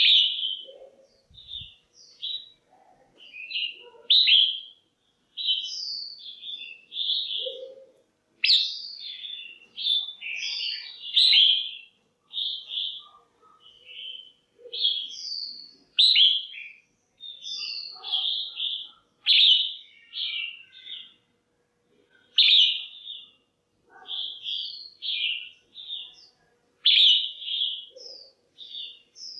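Red-whiskered bulbul, given as a female, calling: a continuous run of short, bright chirping phrases with brief gaps between them. This kind of female call is played to stir up a male bulbul or to pair birds.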